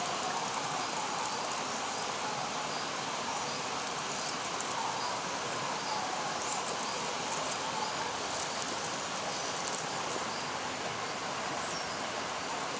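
Outdoor nature ambience: a steady hiss with small repeated chirps and clusters of very high, fast clicks, like insects or small birds.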